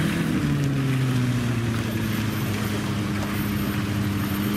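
Off-road 4x4's engine pulling under load on a steep, tilted muddy climb. Its pitch shifts briefly near the start, then holds steady.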